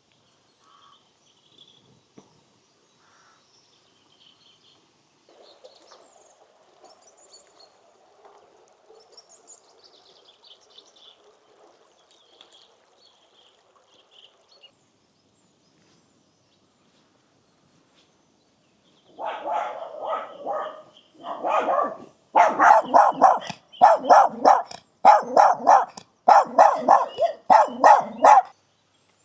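A dog barking, about a dozen loud barks at a steady pace starting about two-thirds of the way in. Before that, faint small-bird chirping.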